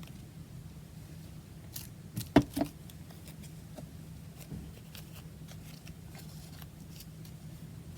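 A few sharp knocks and clicks of small craft items being handled and set down on a tabletop, loudest about two seconds in, then light scattered taps and rustling over a steady low hum.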